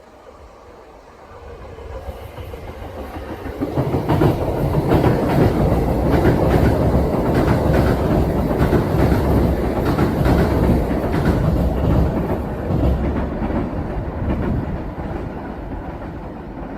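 Kintetsu electric train passing without stopping, its wheels clacking rhythmically over the rail joints. It builds from about two seconds in, is loudest through the middle, and fades near the end.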